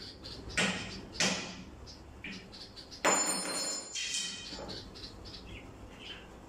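Bird chirping in short high notes, several a second, broken by loud noisy bursts: two brief ones about half a second and a second in, and a longer, louder one about three seconds in.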